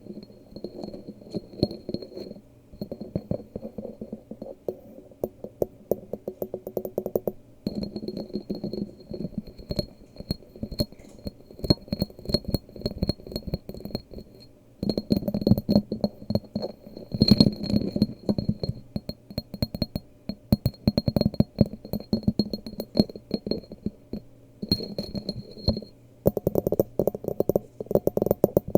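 Rapid ASMR tapping on hard objects, a dense stream of quick taps, some with a faint glassy ring, with a few short breaks.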